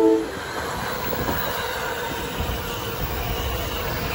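NJ Transit Arrow III electric multiple-unit train passing close at speed: a steady rumble of wheels on rail with a faint steady whine. The end of its horn blast cuts off just after the start.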